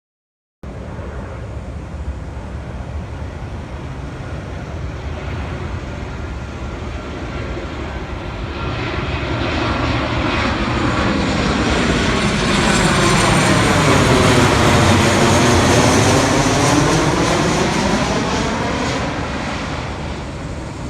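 Boeing P-8 Poseidon jet flying over, its twin CFM56 turbofan engines running as a steady jet noise. The noise grows louder toward a peak about two-thirds of the way through, with a sweeping, swirling change in tone as the plane passes overhead, then eases off a little.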